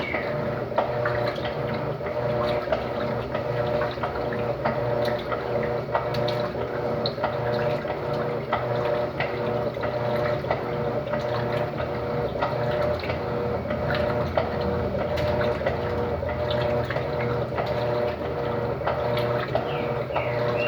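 Electrolux LTD13 washing machine running in its first rinse: water noise over a steady motor hum, with scattered light clicks.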